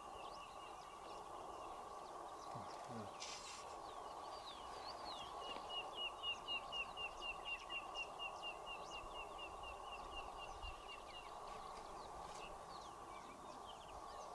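Birds calling in the bush, one giving a fast run of repeated notes, about four a second, for some six seconds, over a steady background hum.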